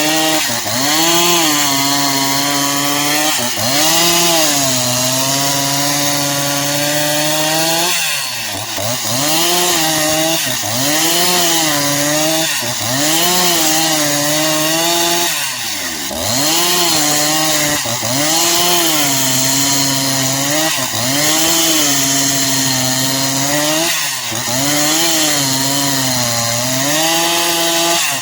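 Two-stroke chainsaw cutting the bark-side slab off a eucalyptus log. Its engine note dips under load and rises again about every two seconds.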